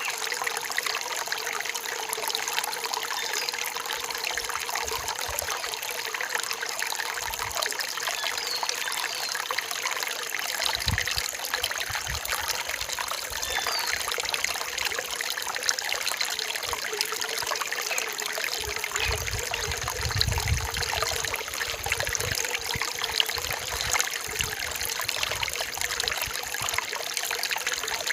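Forest stream trickling and splashing over stones, a steady water sound with a few faint bird calls above it. Low rumbling swells briefly about two-thirds of the way through.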